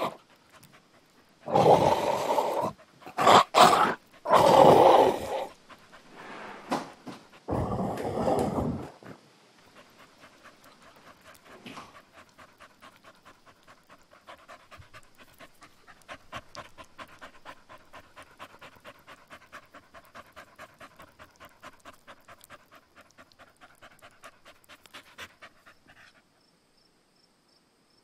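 Two dogs, a mixed-breed and an Akita, fighting: several loud bursts of growling in the first nine seconds. Then a dog panting rapidly, which stops a couple of seconds before the end.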